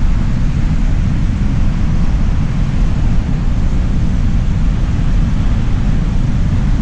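Steady wind buffeting the microphone, a loud low rumble, with the wash of surf beneath it.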